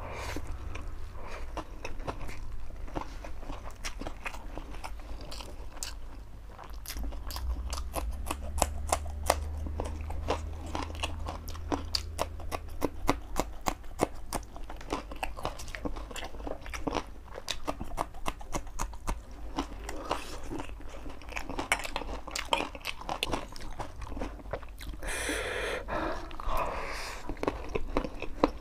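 Close-miked eating sounds: steady chewing with many wet mouth clicks and smacks while a man eats fried chicken noodles. Near the end comes a longer, louder slurp of noodles. A low steady hum sits underneath.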